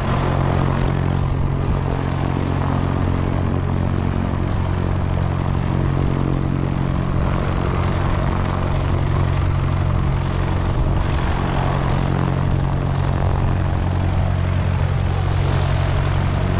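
Piper Cherokee 140's four-cylinder Lycoming engine and propeller running steadily at low power, with no change in speed.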